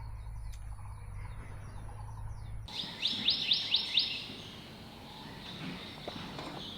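A wild bird sings a quick run of five short, high chirps about three seconds in, over faint forest background. Before that, a steady low hum cuts off abruptly.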